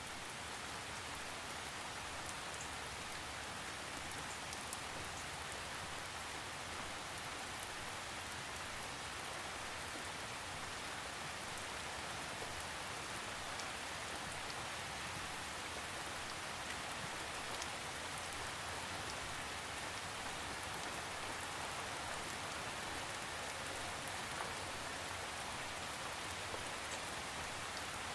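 Steady rainfall, an even hiss of rain with scattered small drop ticks, no thunder.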